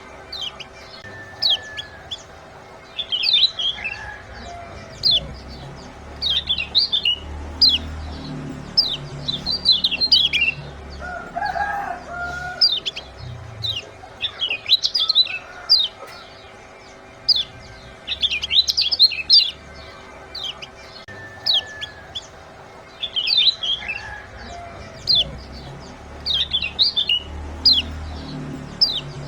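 Lemon-bellied white-eye (kecial kuning) calling: quick clusters of sharp, high 'ciak' chirps, repeating every second or two. It is a lure recording meant to set caged birds singing.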